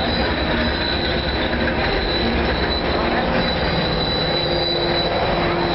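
Passenger train rolling slowly past at close range: a steady noise of wheels and cars on the rails, with a steady high wheel squeal.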